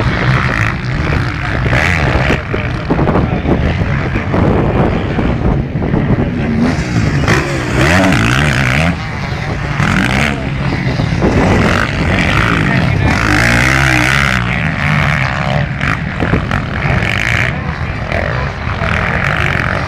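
Motocross bikes racing on the track, their engines revving up and down as they pass, with rising and falling engine pitch several times.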